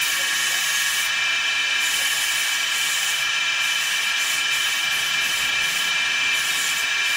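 Woodworking machine running steadily: a continuous hiss with a steady high-pitched whine.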